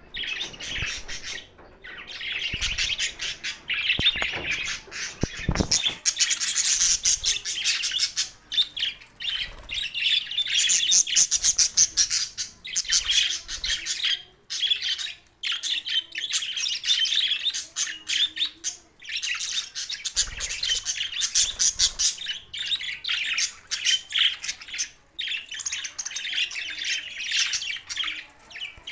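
Budgerigars chattering and warbling in a dense, rapid stream of chirps and squawks, broken only by short pauses.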